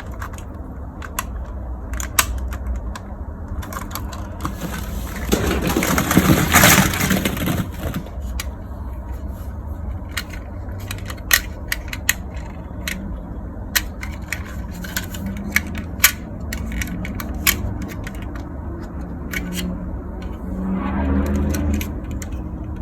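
Small plastic toys clicking and clattering as they are handled, with a longer rustling scrape about six seconds in and another near the end.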